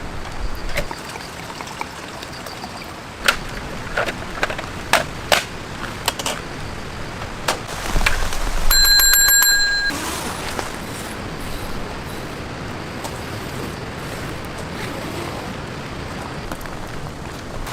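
Steady rain hiss with scattered sharp ticks of drops. About nine seconds in, a single high bell-like ring sounds for just over a second.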